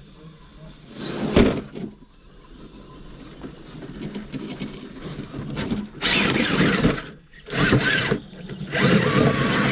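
Electric motor and drivetrain of an RC rock crawler whining in short bursts of throttle as it climbs over rock, stopping and starting twice near the end. There is a brief louder burst about a second in.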